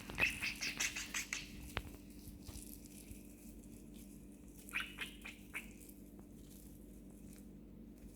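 Budgie chirping in quick high bursts, once in the first second or so and again about five seconds in, with a few light clicks in between.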